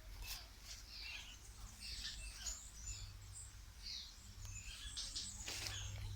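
Several birds chirping and calling in quick, varied short high notes over a low rumble of wind or handling noise, with a sharp click about five and a half seconds in.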